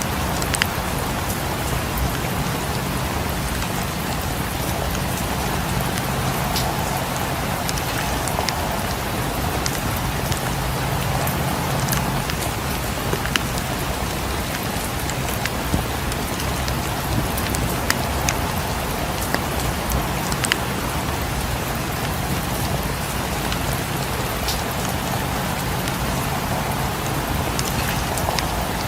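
Steady rain falling on a cabin, an even unbroken hiss with scattered sharp ticks and crackles throughout.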